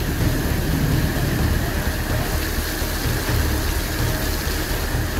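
Heavy downpour: rain pouring steadily onto a paved plaza, with a low rumble running underneath.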